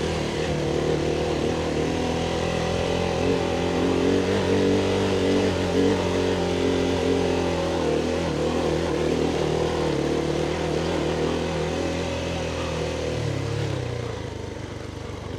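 Adventure motorcycle's engine running steadily under way, with wind rushing over the microphone; near the end the engine note drops and gets quieter as the rider eases off.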